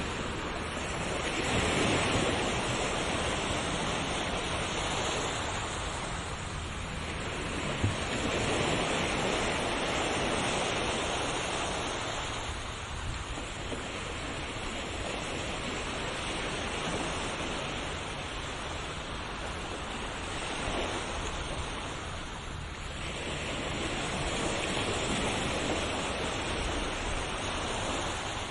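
Ocean waves breaking and washing on a shore, a continuous rush that swells and eases every few seconds.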